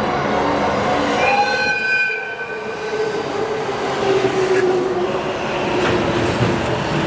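A train running through a station: steady rumble and rail noise, with a brief high-pitched tone about a second in and a steady whine from about three seconds in.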